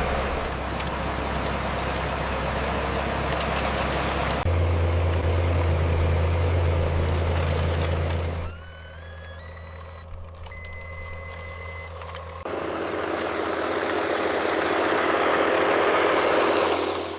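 Radio-controlled scale construction trucks running: a steady low engine-like hum with motor and gear noise, changing abruptly several times. A quieter stretch in the middle holds a short run of stepped rising beeps and one held tone.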